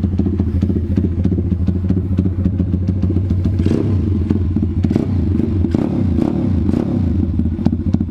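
Stomp Z40 140cc pit bike's single-cylinder four-stroke engine running steadily at idle through its exhaust, with a few brief swells of noise about halfway through. The exhaust no longer rattles, the rear of its baffle having been removed.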